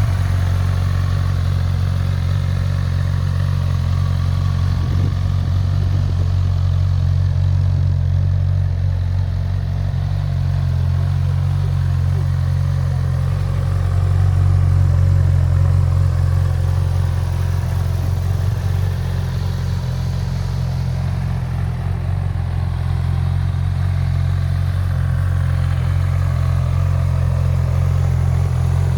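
Honda CB1000R's inline-four engine idling steadily, with no revving.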